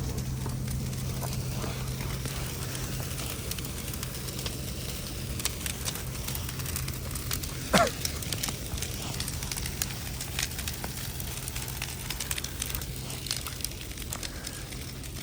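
Big bonfire burning, with scattered sharp crackles and pops over a steady low hum. About halfway through, one short squeal falls in pitch and is the loudest sound.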